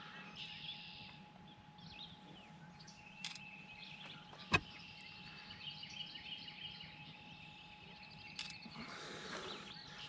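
Songbirds chirping and singing, with a single sharp click or knock about halfway through.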